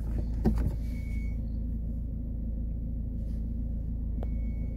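Car engine idling, heard from inside the cabin as a steady low hum. There is a knock about half a second in, and two short high beeps, one about a second in and one near the end.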